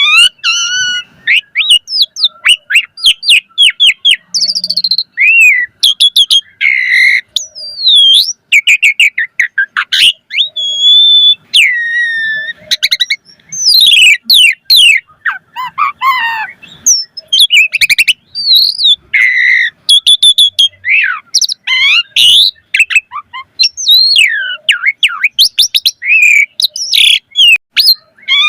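Asian pied starling (jalak suren) singing a long, varied song: rapid trills, chattering runs and rising and falling whistles in quick succession with brief pauses.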